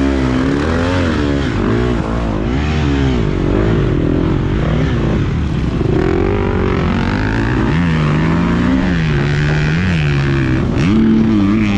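KTM 250 SX-F four-stroke motocross bike engine revving hard and easing off over and over as it is ridden round the track, the pitch rising and falling about once a second. It settles lower and steadier a little past halfway, then climbs again near the end.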